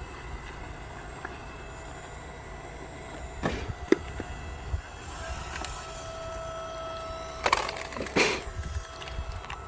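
Oak firewood cracking and knocking: a few sharp wooden cracks about three and a half to five seconds in, and two louder ones near the end, over a steady hum.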